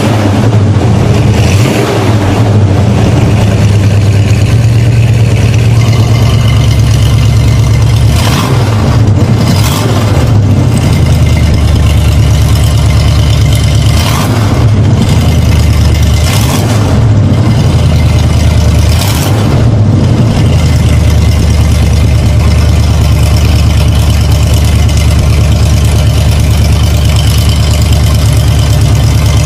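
Muscle car engine running at idle, revved briefly about five times in the middle stretch.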